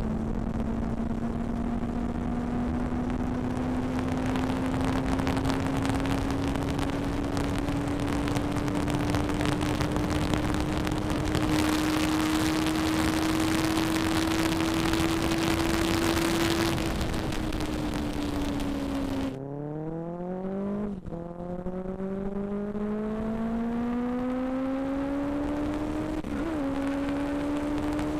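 Benelli 600i's inline-four engine running at speed under heavy wind rush, its note slowly climbing. About two-thirds through the wind rush drops away and the engine note falls, then climbs again twice in quick succession as it changes up through the gears.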